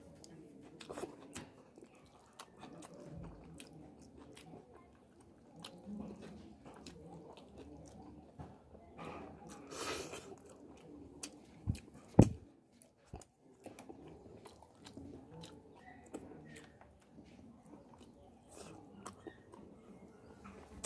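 Close-up chewing and wet mouth sounds of a man eating fried fish and rice by hand, with many small lip-smacking clicks. Two short low thumps come about twelve seconds in.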